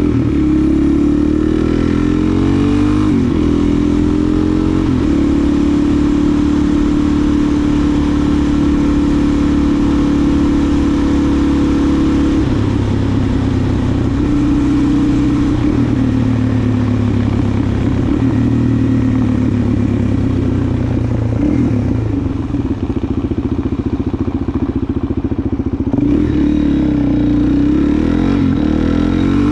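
Suzuki DR-Z400SM's single-cylinder four-stroke engine running under way. Its note steps in pitch a few times and climbs again near the end.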